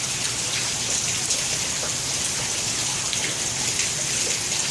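Heavy rain falling steadily onto flooding pavement, an even hiss.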